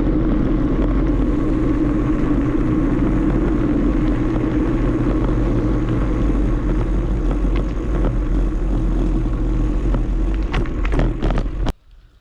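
Wind rushing over the microphone and tyre rumble from a moving bicycle, with a few clicks near the end before it cuts off suddenly.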